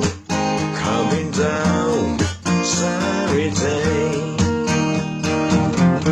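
Music: strummed acoustic guitar with a steady beat, and a melody line sliding up and down in pitch over it for a few seconds.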